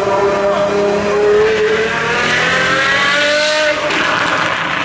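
Apollo IE's 6.3-litre V12 with straight-pipe exhaust under hard acceleration. It holds a steady note for about two seconds, then rises in pitch before dropping off sharply near the end.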